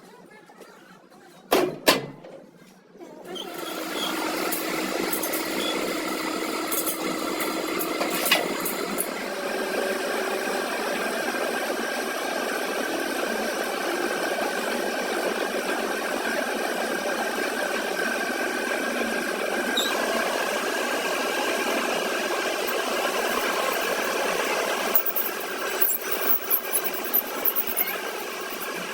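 A machine motor starts running steadily about three seconds in, after two sharp knocks, and keeps a continuous mechanical hum.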